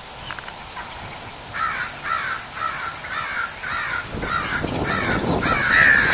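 Crows cawing in a quick series, about three harsh caws a second, then more birds joining in a louder, denser chorus near the end: alarm calls at a person standing under their tree.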